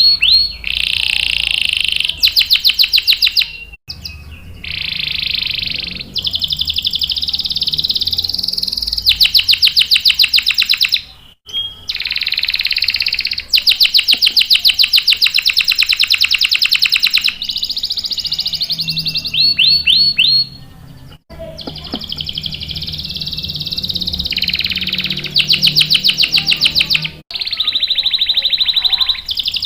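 Domestic canary singing vigorously: long phrases of rapid, rolling trills and chirped notes, high-pitched, with a few very brief breaks between phrases.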